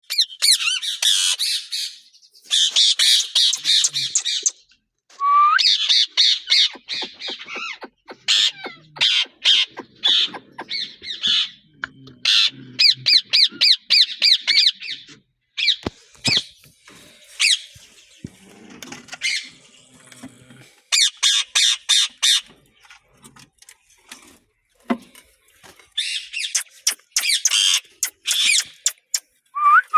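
Parrots squawking in repeated harsh bouts a second or two long, with short pauses and quicker, shorter calls between them.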